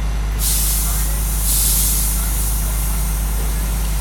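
Fire hose opening up on a burning truck: a loud spray hiss starts suddenly about half a second in, peaks a second later, then carries on, over a steady low rumble.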